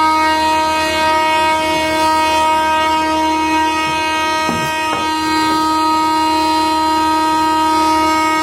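Lumber-cleaning woodworking machine running with a steady, loud multi-tone whine, with a couple of brief knocks about four and a half to five seconds in.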